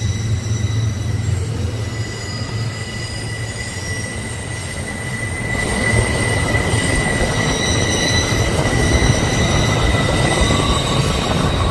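A train's steel wheels squealing against the rails: several high, steady squeal tones that shift in pitch, over the rumble of rolling cars, which grows louder about six seconds in.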